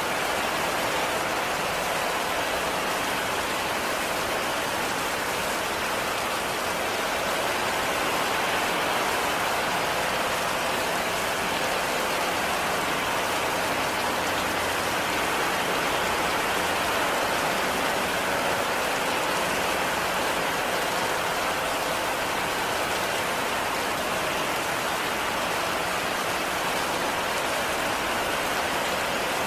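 Heavy, steady rain falling, an even hiss of drops on surfaces with no let-up or change.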